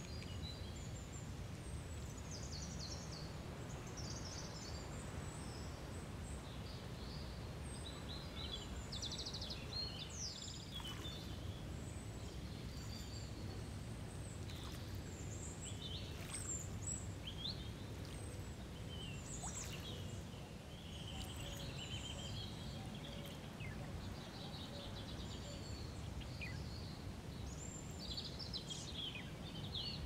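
Many small birds chirping and calling on and off, over a steady low background rumble.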